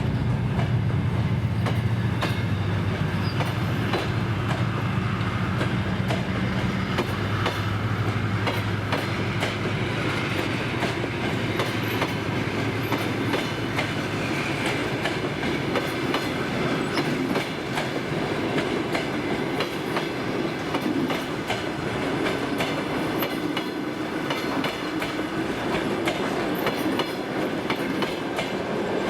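Passenger train departing behind a 2TE10UT diesel locomotive: coach wheels clicking steadily over rail joints as the carriages roll past. The locomotive's low diesel engine drone is heard for the first ten seconds or so, then fades.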